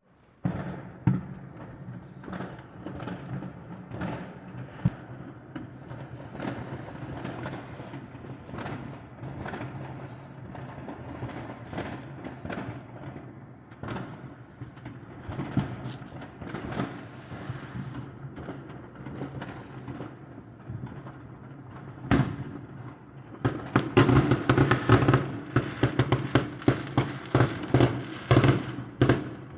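Fireworks going off: scattered bangs and crackles, then, about three-quarters of the way through, a dense rapid barrage of louder bangs.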